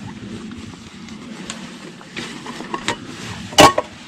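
Camp cooking gear being handled and set down: a few scattered clicks and knocks, the loudest about three and a half seconds in, over a steady low hum.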